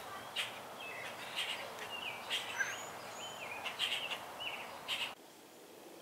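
Wild birds chirping with short, scattered calls and a few thin high whistles over a steady outdoor hiss; the sound drops off abruptly about five seconds in.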